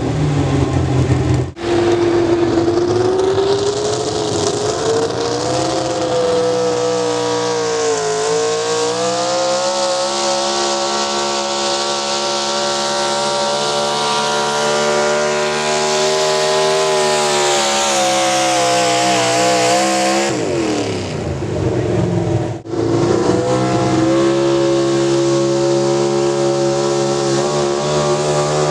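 Pulling vehicle's engine running hard at high revs under load, its pitch wandering up and down. About twenty seconds in, the pitch falls away, then the engine comes back up to a steady high pitch.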